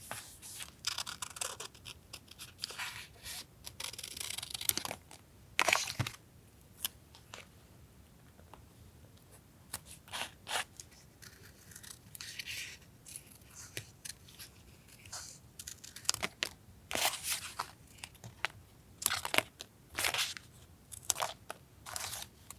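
Paper being handled up close: torn, cut and rustled in many short crisp strokes, with a few longer rasping tears lasting about a second.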